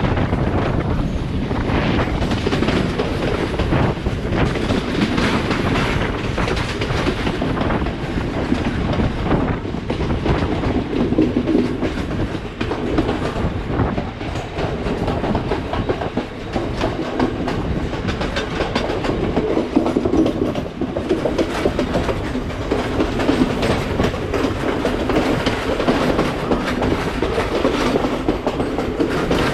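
Express train running steadily, heard from aboard: wheels clattering over rail joints over a continuous rolling rumble.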